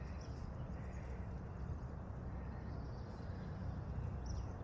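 Quiet outdoor background: a steady low rumble with no distinct events, and a faint high chirp near the end.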